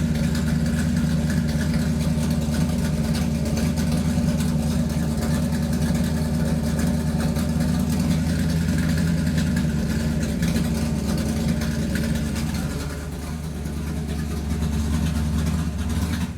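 A motor running loudly and steadily. It eases off briefly about three-quarters of the way through, picks back up, and cuts off at the very end.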